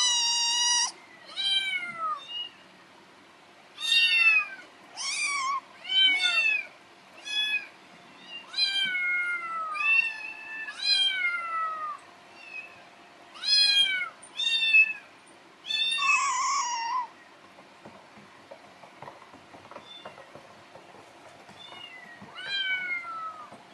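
Kitten meowing over and over in high, falling calls, about one every second, that go quieter and sparser after about 17 seconds. The owner reads the crying as hunger.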